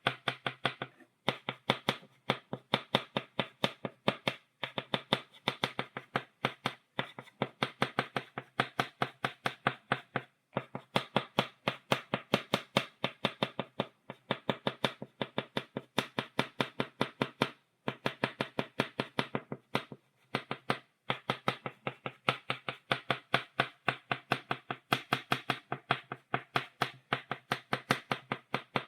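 Chalk tapped against a blackboard to stipple dots: quick sharp taps, several a second, in runs broken by brief pauses every few seconds.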